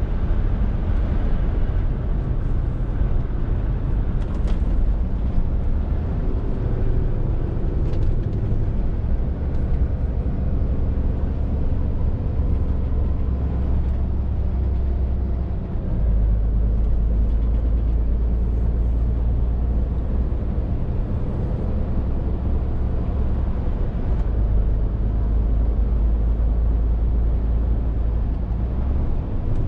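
Scania R450 lorry's six-cylinder diesel engine and road noise under way: a steady low drone that steps up and down in pitch a few times, with a brief dip about halfway through.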